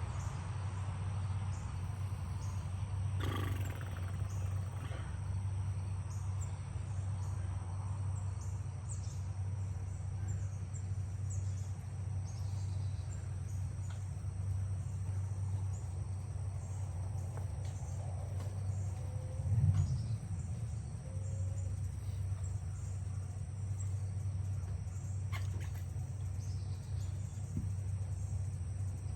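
Steady low hum with a faint, steady high-pitched tone above it, and one dull thump about two-thirds of the way through.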